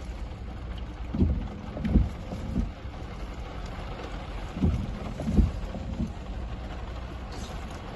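Hurricane wind blowing in gusts and buffeting the microphone, low rumbles coming every second or so over a steady rushing hiss.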